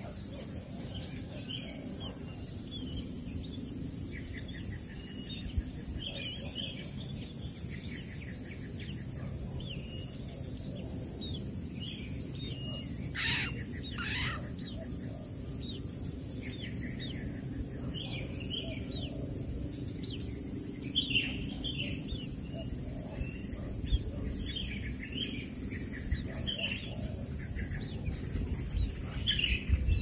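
Birds chirping: many short, high chirps, with two louder calls close together a little before halfway, over a steady high-pitched insect drone.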